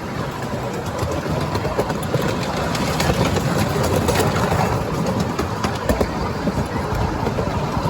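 Steady rumble and rattle of a moving train heard from on board, with scattered brief clicks.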